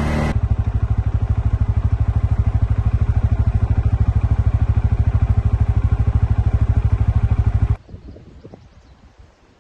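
An engine idling with an even thumping pulse, about nine beats a second, that cuts off abruptly near the end. Faint outdoor ambience follows.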